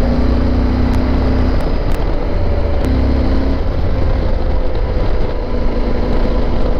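Yamaha Super Ténéré 1200's parallel-twin engine running while the bike is ridden, the engine note shifting slightly in pitch a few times, under heavy low wind rush on the microphone.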